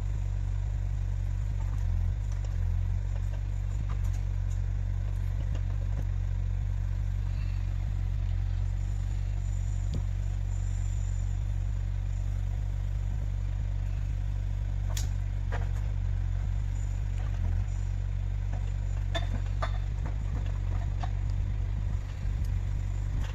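Heavy forestry machine's diesel engine running steadily at a constant low drone, with a few sharp clicks and knocks, one loud one about fifteen seconds in.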